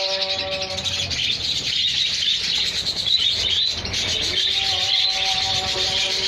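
A colony of budgerigars chattering and chirping continuously, a dense high-pitched warbling of many birds at once.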